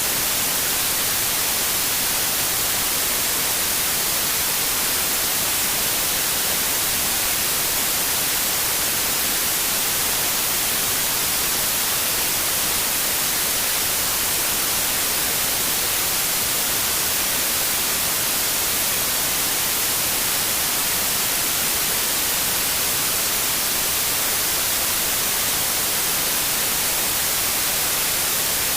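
Steady white noise: an even, unchanging hiss across the whole pitch range, bright and strongest in the highs.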